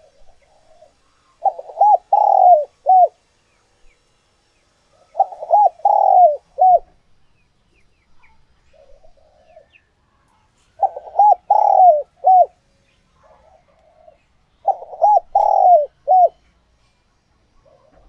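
Spotted dove cooing its song: four phrases of several quick, falling coo notes, each lasting about a second and a half and coming every four to five seconds, with faint short coos in between.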